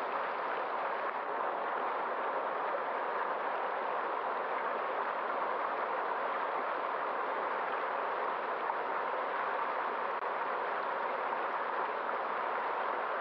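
A stream of running water flowing steadily, a constant even rush without let-up.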